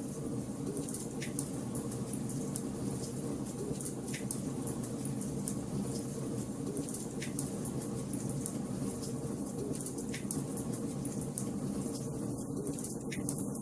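Wood fire crackling in a fireplace: a steady low rush of burning logs under constant small crackles, with four sharper pops about three seconds apart.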